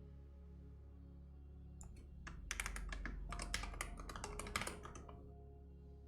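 A quick run of typing on a computer keyboard, rapid clicking keystrokes starting about two seconds in and stopping about a second before the end, over soft background music.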